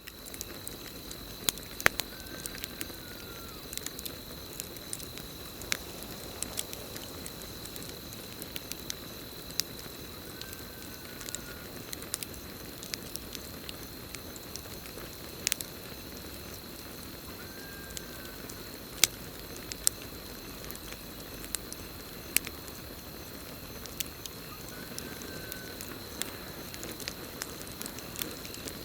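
Campfire burning with irregular crackles and sharp pops over a steady hiss, with a continuous high trill of crickets. A short, faint call that rises and falls repeats four times, about every eight seconds.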